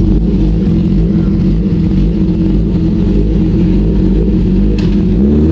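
Superbike engine running with a steady, slightly wavering note, its pitch bending up and down near the end.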